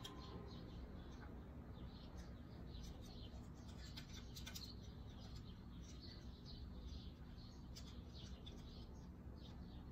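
Small birds chirping faintly in the background, many short high chirps, with a few light clicks.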